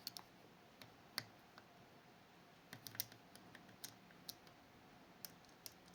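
Faint, irregular metallic clicks of a pick probing and lifting the levers inside a Fichet 484 lever sidebar lock, about eight or nine sharp ticks spaced a half second to a second apart.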